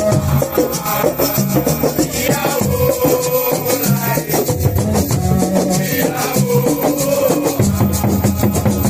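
Band music with a fast steady shaker rhythm over drums and a repeating bass line.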